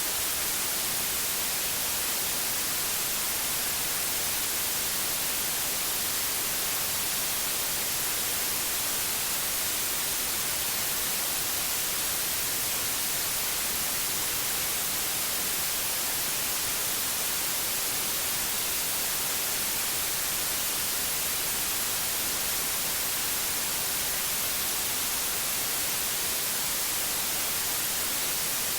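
Pure white noise: an even, unchanging hiss weighted toward the high frequencies, with no other sound.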